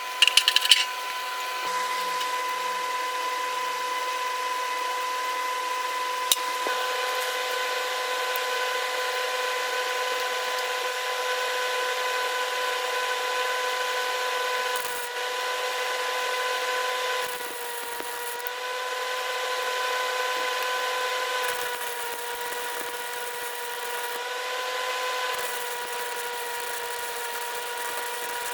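Electric power tool motor running steadily with a high whine, its pitch sagging slightly a few times.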